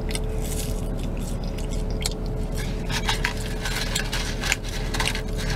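Close-up chewing and mouth sounds from eating French fries: an irregular string of short, sharp clicks over a steady low hum.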